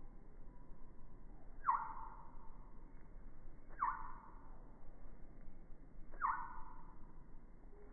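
A bird calling three times, about two seconds apart, each call a short note that starts sharply and sags a little in pitch.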